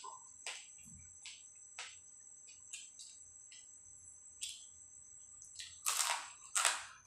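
Close-up eating sounds: wet chewing clicks and lip smacks as grilled field-rat meat is chewed, with a few sharp clicks early on and louder smacks about six seconds in. Under them runs a steady high cricket trill.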